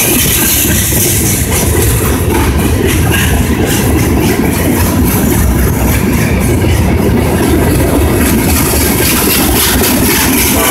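Freight cars of a CSX train rolling past close by: a loud, steady rumble of steel wheels on rail, with many quick clicks and clanks from the wheels and couplings.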